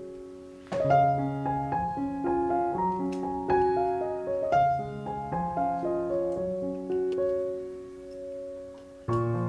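Background piano music: a calm melody over held chords, with a new phrase starting under a second in and another just before the end.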